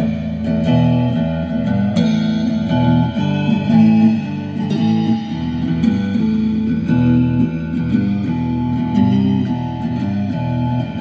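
Guitar improvising: a continuous run of ringing single notes and chords that shift pitch every second or so.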